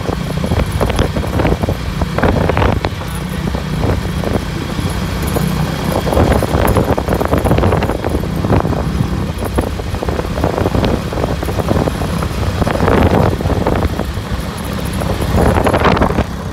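Motorcycle engine running steadily at road speed during a ride, with gusty wind noise.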